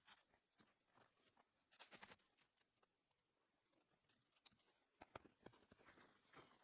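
Near silence with faint, scattered clicks and soft rustles, a few louder ticks around two and five seconds in.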